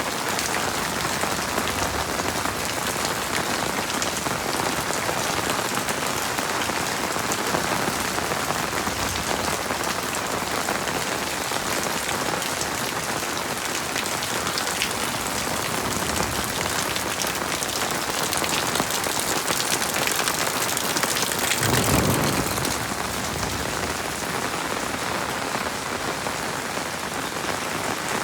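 Heavy rain falling steadily, with a brief louder swell about three-quarters of the way through.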